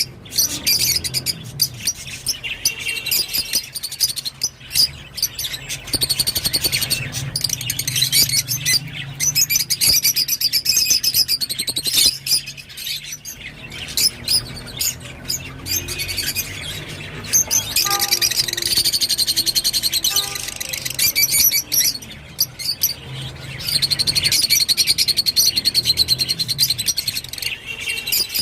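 Rosy-faced (peach-faced) lovebird chattering: long runs of rapid, high chirps and squeaks broken by short pauses.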